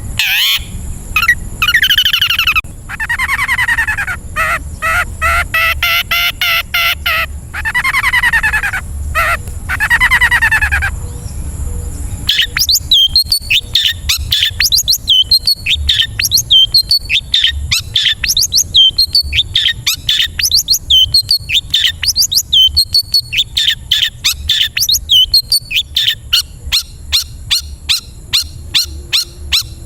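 Songbird singing loudly: first three long, drawn-out phrases that rise and fall in pitch, then, from about twelve seconds in, a fast run of short, sharp downward-sweeping chirps, several a second.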